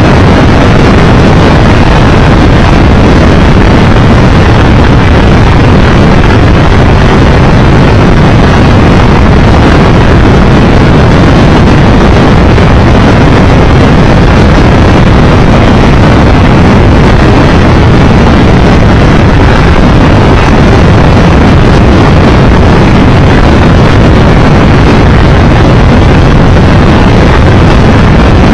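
Triumph Tiger Explorer 1200 motorcycle on the move, wind rushing over the microphone at riding speed with the bike's engine running underneath. Loud and steady throughout.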